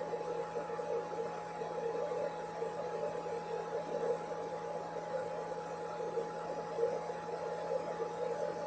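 Hair dryer running steadily: an even whir with a constant whine and a low hum underneath, unchanging.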